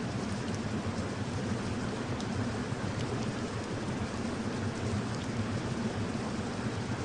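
Steady rain falling: an even, unbroken hiss with a deep undertone and faint scattered drop ticks.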